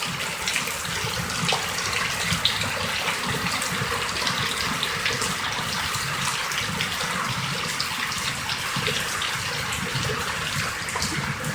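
Heavy rain pouring steadily, a dense hiss of many small splashes.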